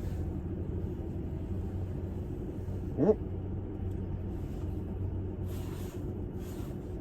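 Car engine idling with a steady low rumble, heard from inside the cabin. A short rising sound about three seconds in, and brief rustling near the end.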